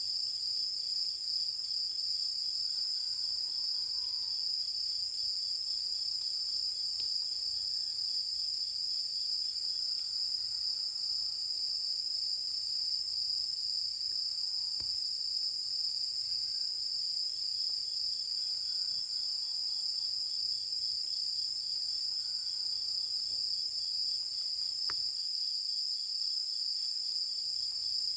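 Night chorus of insects trilling steadily at a high pitch, with a few faint, lower chirps now and then.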